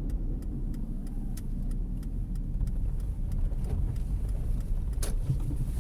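Car engine and road rumble heard from inside the cabin, steady and low, with a scattering of small sharp ticks and one louder click about five seconds in.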